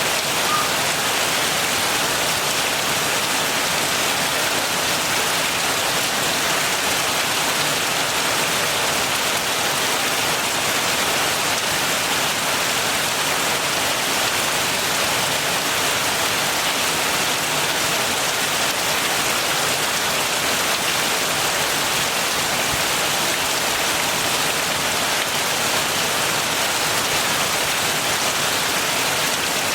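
Steady heavy rain pattering on surfaces, an even, unbroken hiss of drops.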